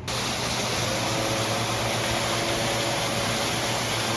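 Steady, loud rushing noise with a low hum under it, starting abruptly, as from a fan, blower or running motor.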